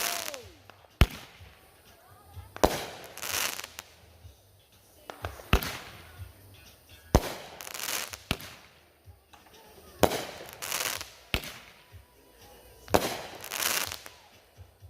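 TNT Jaws aerial fireworks firing a string of shots: each sharp bang is followed by a crackling hiss lasting about a second, repeating at irregular gaps of 1.5 to 3 seconds.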